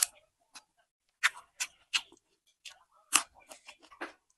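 Crunching of crisp raw green vegetable shoots being bitten and chewed close to the microphone: a string of sharp, irregular crunches, the loudest about three seconds in.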